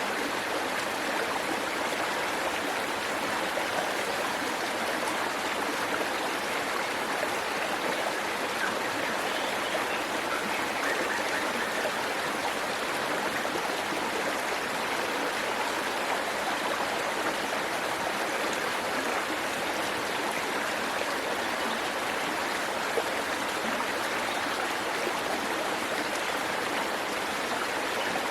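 Waterfall: water pouring and splashing over rocks in a steady, unbroken rush.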